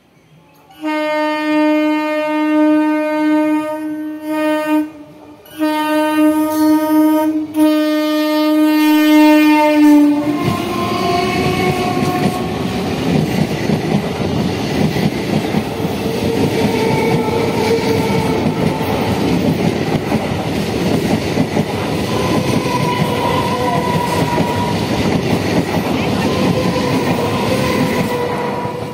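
Electric multiple unit (EMU) train's horn sounding two long blasts, the first ending about 5 s in, then the train running past close by, its wheels clattering over the rail joints.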